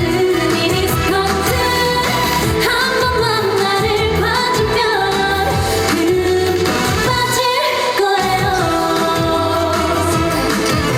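A woman singing a Korean song live over a loud band backing track, her melody bending up and down in pitch.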